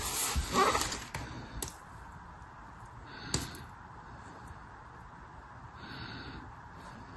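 Packaging handled during unpacking: a rustle in the first second, a light click, then a single tap a few seconds in, with quiet handling after.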